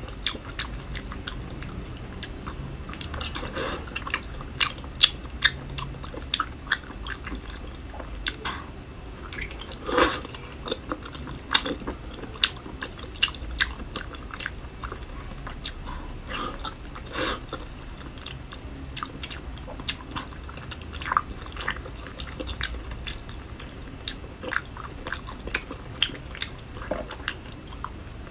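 Close-miked wet chewing and lip-smacking on soft, fatty braised pork belly: irregular sticky mouth clicks and smacks, with a couple of louder smacks about ten and seventeen seconds in.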